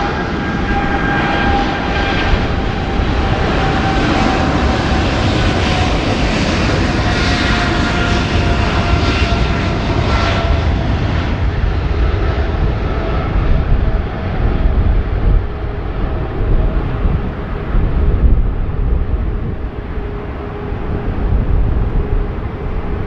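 Boeing 777-300 jet engines at takeoff thrust: a loud, steady jet noise with a deep rumble and a high whine that slowly falls in pitch as the airliner passes and climbs away.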